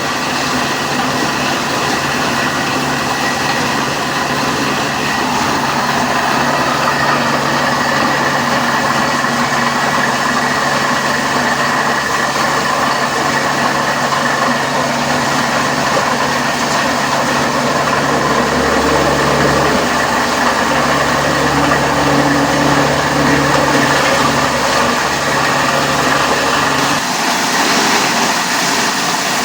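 Plastic-recycling plant machinery running with a steady mechanical drone and hum. Near the end the deepest part of the hum drops away.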